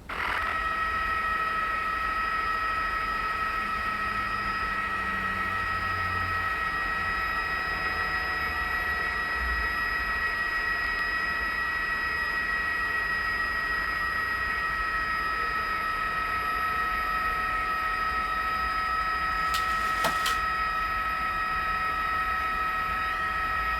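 News helicopter running, heard from inside: a steady whine with two strong high tones over a low engine and rotor noise. A short crackle comes about twenty seconds in.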